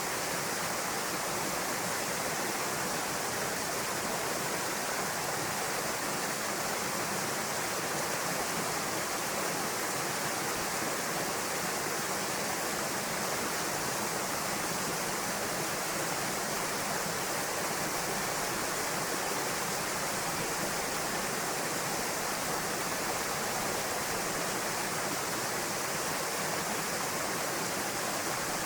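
Waterfall pouring into a pool: a steady, even rush of falling water with no change.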